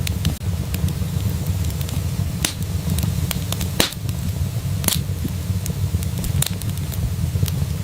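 Fire in a fireplace crackling, with irregular sharp pops over a steady low rumble; the loudest pops come about four and five seconds in.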